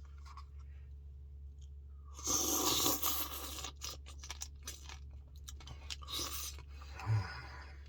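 A person eating a puppy chow Blizzard, crunching and scraping, with a louder noisy stretch about two seconds in and scattered clicks. A brief low hum comes near the end.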